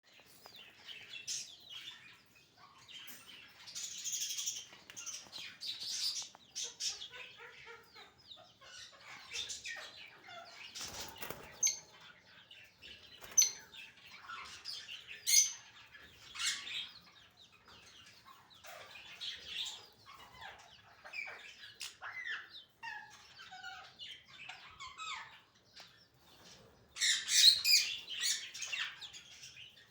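Lovebirds chirping and squawking, many short irregular shrill calls overlapping, with a louder burst of calls near the end.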